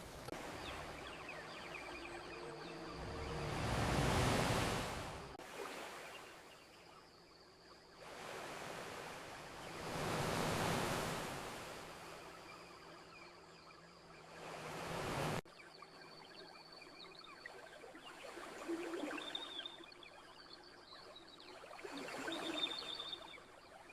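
Ocean waves washing onto the shore, two swells rising and falling away. About fifteen seconds in the sound cuts abruptly to a quieter surf bed with faint high chirps.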